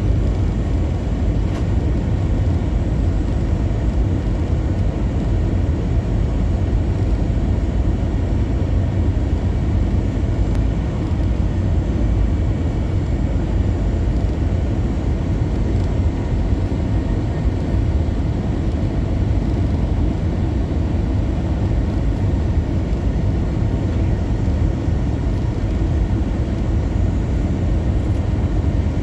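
Steady low rumble inside the cabin of an Airbus A321-200 on final approach: engine and airflow noise heard from a passenger seat.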